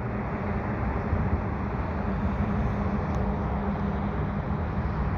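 CN freight train's diesel locomotives, a GE ET44DC leading and an AC44C6M trailing, running with a steady low engine drone and rumble that grows slightly louder.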